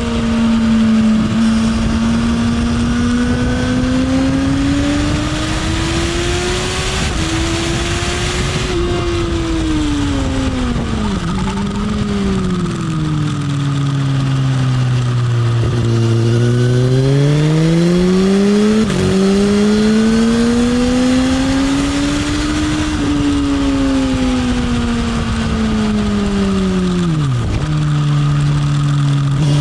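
Motorcycle engine heard onboard on a track lap, its note rising under acceleration and falling away into corners, with sudden pitch drops at gear changes. A steady rush of wind noise runs under it.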